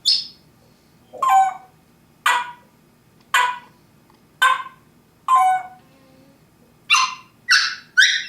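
African grey parrot mimicking a dog barking: a series of about nine short, loud barks, roughly one a second, coming faster near the end.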